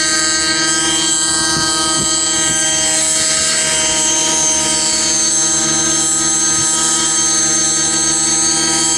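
RC nitro helicopter in flight: the Align 55H glow engine and spinning rotors giving a steady, high-pitched whine with a constant pitch, the head speed held by a governor, and a slight wavering a few seconds in.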